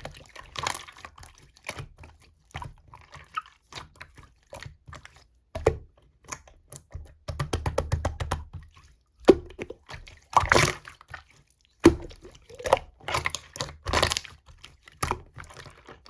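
Slime being squished and pressed by hand: an irregular run of wet, sticky clicks and pops with short squelching bursts, busiest in the middle and loudest in the second half.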